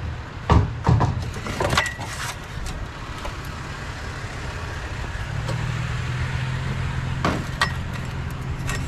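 A few sharp knocks and clanks in the first two seconds. From about five seconds in, a vehicle engine runs with a steady low hum, with two more knocks near the end.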